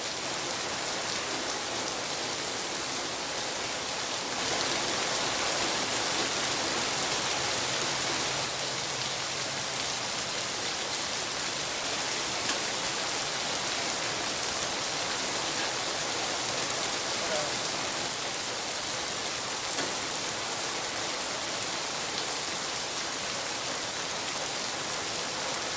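Steady rain falling, a continuous even hiss, a little louder for a few seconds starting about four seconds in.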